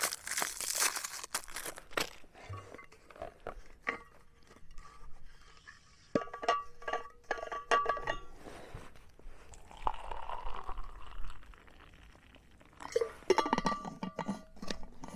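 A plastic biscuit packet crinkling for the first couple of seconds, followed by scattered crunches and several short ringing clinks, like a metal mug or spoon being knocked.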